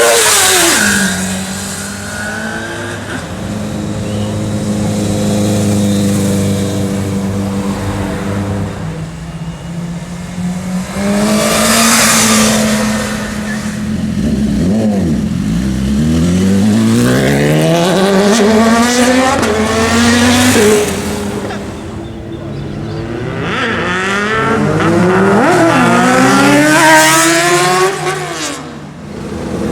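Sport motorcycle engines running and accelerating hard, with a loud exhaust blast near the start and another about a third of the way in. Twice in the second half the engine pitch rises in long sweeps as a bike pulls away through the gears.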